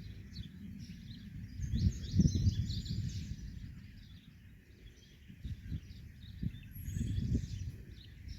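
Small birds chirping in a quick, busy stream of short high notes, over a low gusting rumble that swells about two seconds in and again near the end.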